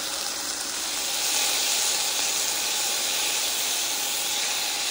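Onions and chopped tomato sizzling in a 1.5-liter electric self-heating pot, a steady frying hiss that gets a little louder about a second in.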